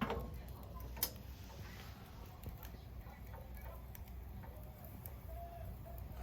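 Wood fire crackling in a homemade stainless-steel secondary-combustion fire pit: sharp pops at the start and again about a second in, then fainter scattered ticks over a steady low rumble.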